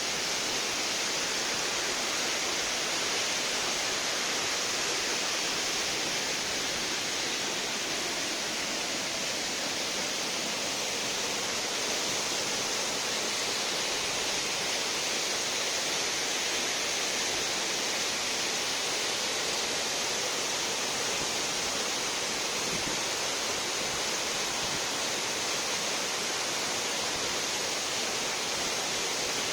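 Waterfall: water falling and rushing with a steady, unbroken hiss.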